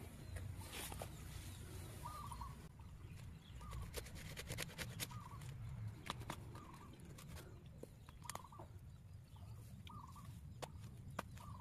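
A bird repeating a short call about every second and a half, over scattered sharp clicks and knocks of a blade and gloved hands working in wet soil around a tree's roots.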